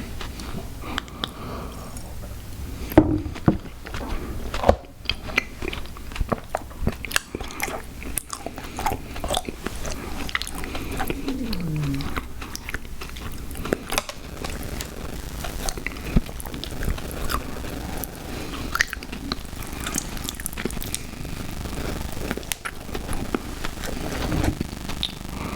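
Chewing and biting of sour gummy worms cereal close to the microphone, with many small irregular crunches and mouth clicks.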